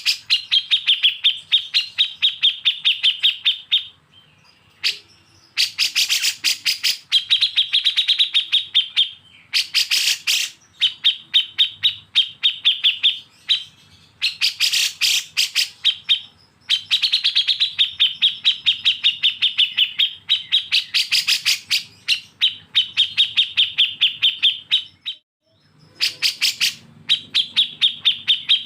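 A songbird's harsh, rapid song: long runs of quick repeated sharp notes in bursts of one to several seconds, separated by brief pauses.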